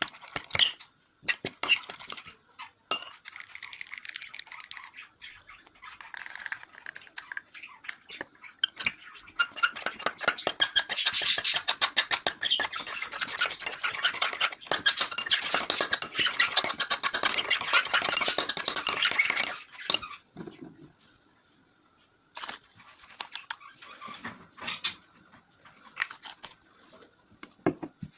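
Homemade glue-and-borax slime being stirred and worked in a container: rapid sticky, wet clicking and crackling, with a brief pause about two-thirds of the way through.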